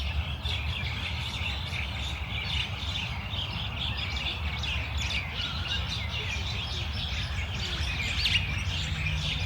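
Many small birds chirping and twittering at once in a busy chorus, over a steady low rumble.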